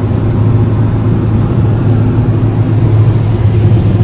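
Car on the move: a steady, loud low rumble of road and engine noise.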